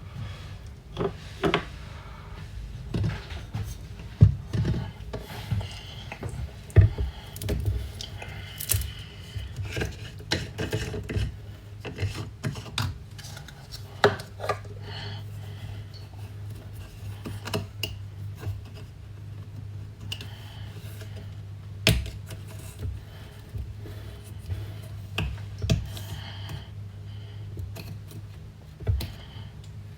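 Kitchen handling sounds: dishes, utensils and cookware clinking, knocking and scraping in an irregular run of sharp taps. A low steady hum runs for several seconds in the middle.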